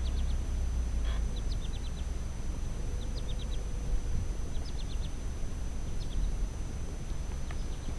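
A small bird chirping in quick runs of three to five short high notes, repeated every second or two, over a low steady rumble.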